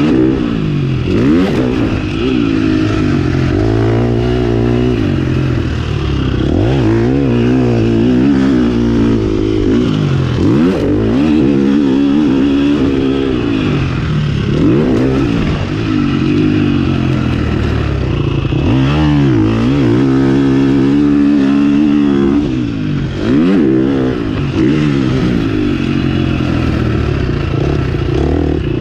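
Four-stroke single-cylinder motocross engine of a KTM 350 SX-F being ridden hard, revving up and falling back again and again as the throttle is opened and closed.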